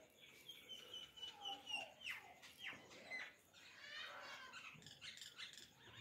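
Faint chirping and calling of small birds: a string of short chirps and quick falling notes.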